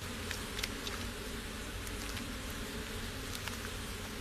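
Stingless bees buzzing steadily around their raided nest, with a few faint ticks through it.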